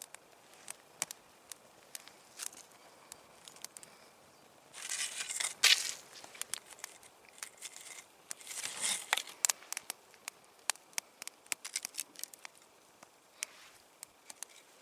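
Wood campfire crackling, with scattered sharp snaps and pops and two louder noisy spells of about a second each, around five and eight seconds in.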